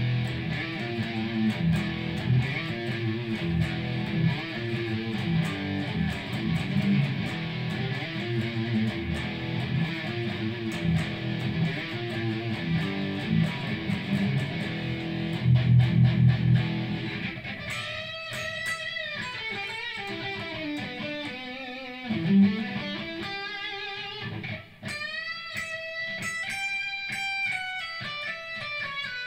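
Electric guitar played through a Marshall amp sound, as picked up by a phone's built-in microphone. It plays a dense, chugging low riff, then about 17 seconds in switches to a single-note lead line with bent, wavering notes.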